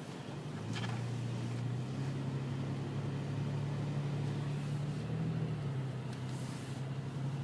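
A vehicle engine running with a steady low hum that rises in pitch about two seconds in and drops back a little after five seconds, over a constant hiss.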